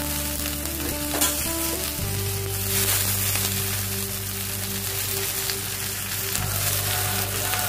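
Fresh ensabi greens sizzling steadily in hot oil in a wok, just added to the pan.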